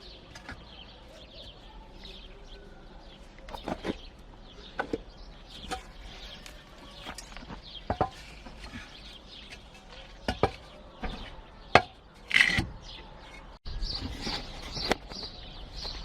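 Newly hatched chicks peeping in short high chirps, among scattered sharp taps and knocks. Near the end the peeping becomes louder and more frequent.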